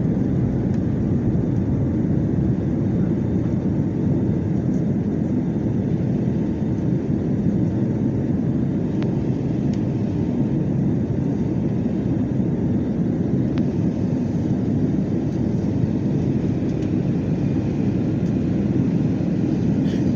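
Airbus A320 cabin noise in flight: a steady, low rush of engines and airflow heard from inside the cabin.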